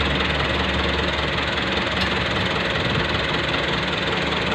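A 640 tractor's diesel engine running steadily.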